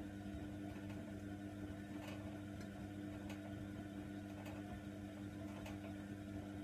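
Hoover Nextra washer dryer running mid-cycle: a steady motor hum from the turning drum, with light clicks every second or so as the load tumbles.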